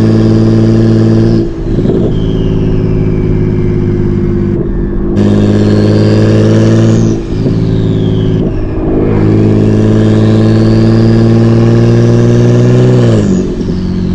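Single-turbo BMW 335i's N54 inline-six pulling hard under load, with a loud turbo whistle from the hood-exit setup that rises during each pull and winds down at each brief lift for a gear change. Several shifts come through, and near the end the engine note drops away as the throttle closes.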